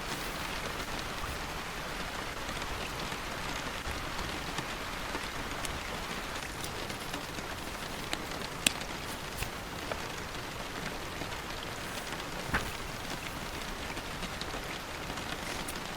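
Steady rain falling on a surface, an even patter with a few sharper, louder drops striking here and there.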